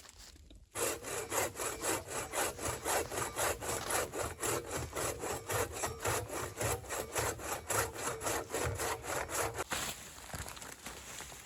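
Hand saw cutting through wood with quick, even back-and-forth strokes. It starts about a second in and stops near the end.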